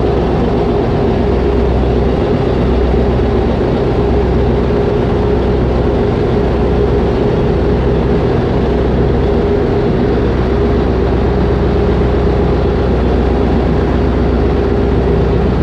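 Ferry's engine running steadily at cruising power: a loud, even low rumble with a constant hum.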